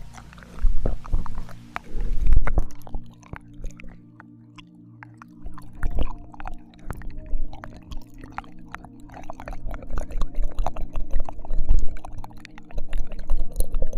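ASMR ear licking: wet tongue and mouth sounds, licking, smacking and slurping close against a binaural microphone, in irregular quick clicks with occasional low thumps.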